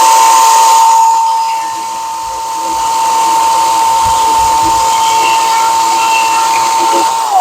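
Milwaukee Fuel battery top-handle chainsaw running at full speed and cutting into an old wooden fence post: a steady high motor whine over the rasp of the chain. It winds down near the end.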